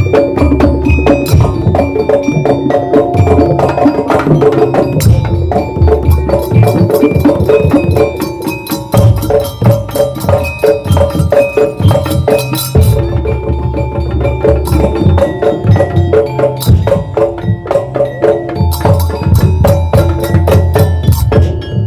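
Madurese daul percussion ensemble playing a fast, steady rhythm: heavy low drum beats under dense wooden knocks and ringing pitched percussion.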